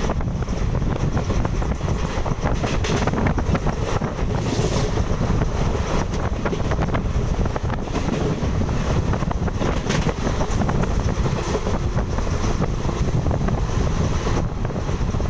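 Wind buffeting the microphone: a loud, steady low rumble with frequent short crackles.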